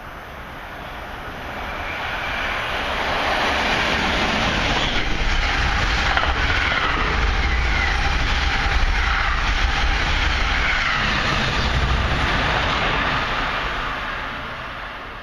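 Passenger train approaching and passing at speed through a station. Its rumble and wheel noise build over the first few seconds, hold loud while the cars go by, then fade as it draws away.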